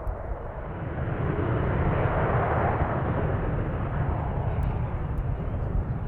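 Jet airliner's engines passing, a rushing jet noise with a low rumble that swells to a peak two to three seconds in and then slowly eases off.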